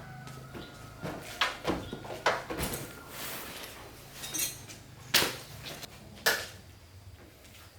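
Metal tools and parts clinking and knocking during repair work: a handful of sharp, irregular strikes over a faint low hum.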